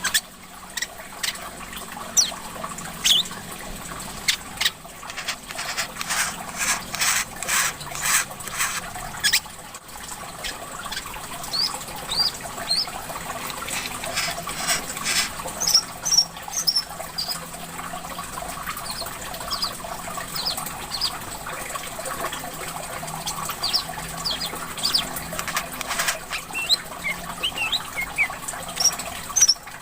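Brown-throated sunbird (kolibri kelapa, 'korlap ijoan') calling in many short, sharp chirps, with a dense burst of rapid chatter a few seconds in, over a steady trickle of water.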